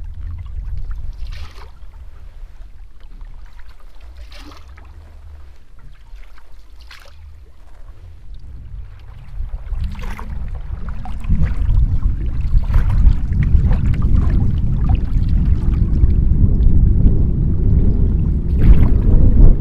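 Canoe paddle strokes, a short splash and swish of water about every two to three seconds. Wind buffets the microphone with a low rumble that grows much louder about halfway through.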